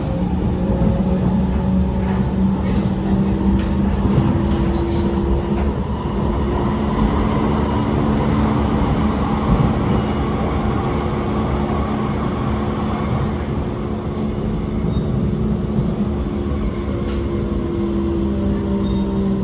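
SMRT R151 MRT train running, heard from inside the car: a steady rumble of wheels on rail, with the traction motors humming in several steady pitched tones that shift slightly near the start and again near the end.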